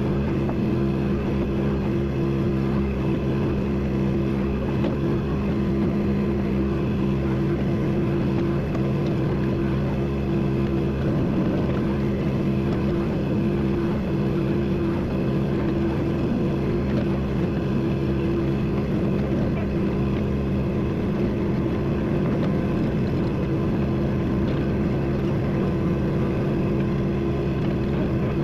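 A vehicle engine running steadily at a constant speed, a low hum that holds unchanged throughout.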